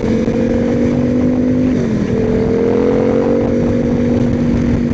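Yamaha FZ-07's parallel-twin engine running hard at high revs while riding, a steady engine note that dips briefly about two seconds in, then climbs slowly again.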